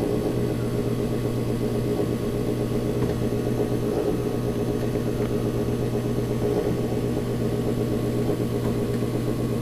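Gas furnace running with its burners lit: a steady, even motor hum from the furnace's fan motors, with no break or change.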